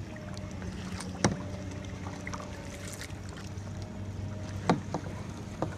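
Paddleboard paddling on open water: a steady low hum runs under a few sharp knocks, likely the paddle striking the board or water. The loudest knock comes about a second in, and two more come near the end.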